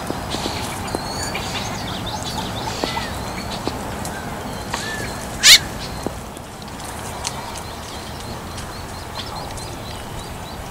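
A bird calling: a scatter of short chirps and arched whistled notes, with one loud, sharp call about five and a half seconds in, over steady low background noise.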